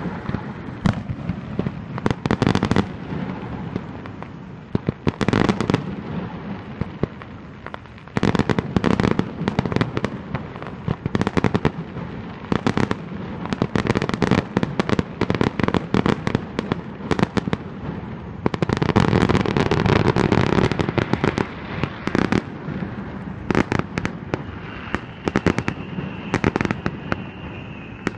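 Aerial fireworks display: shell bursts banging one after another at uneven intervals, with a rapid flurry of bangs about twenty seconds in.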